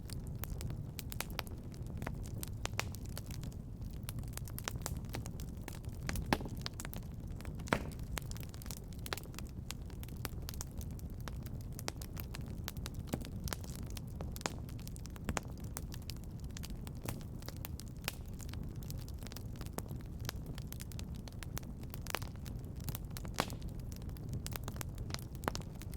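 Wood fire crackling in a fireplace: a low steady rumble of flames with frequent irregular sharp pops and snaps.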